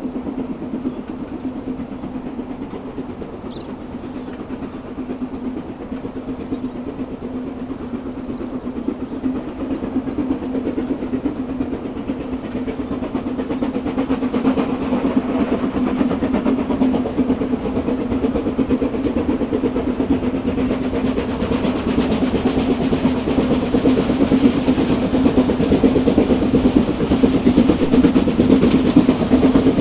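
Steam-hauled train approaching on the line, getting steadily louder from about halfway through, over a steady low hum.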